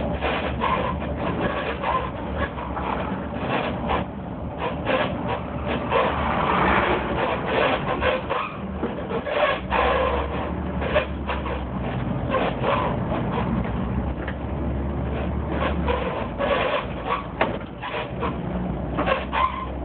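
Inside a moving bus: a steady low engine drone under a stream of irregular clicks, rattles and squeaks, the odd noise coming from somewhere in the bus.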